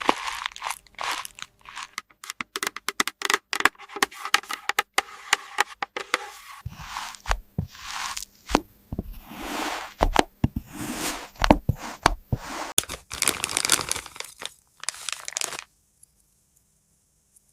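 Plastic toy packaging crinkling and tearing as it is unwrapped, with many quick clicks and taps of small hard pieces being handled; it stops about two seconds before the end.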